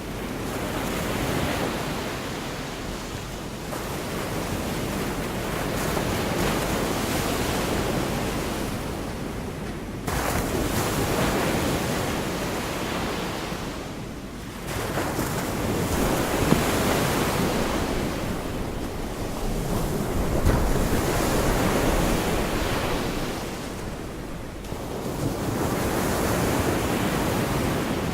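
Gulf of Mexico surf: waves breaking and washing up the beach, swelling and fading every few seconds, a couple of them breaking suddenly.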